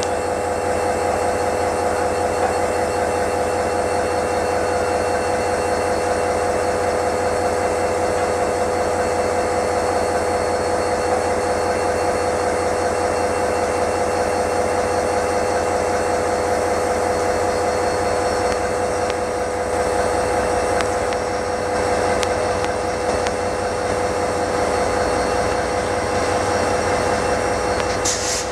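EMD GT22 diesel locomotives running, a steady engine sound with a constant whine.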